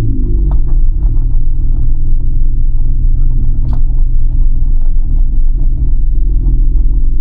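A car's engine and exhaust running steadily at low revs with a deep, loud rumble; the pitch drops briefly just after the start as the revs settle.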